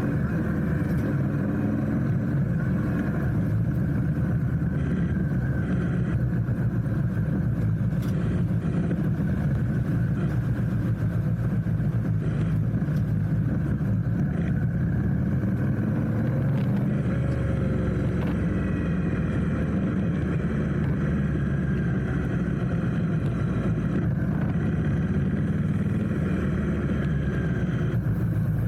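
Steady rumble of a motorcycle riding through city traffic, with faint rising and falling engine tones from about halfway through.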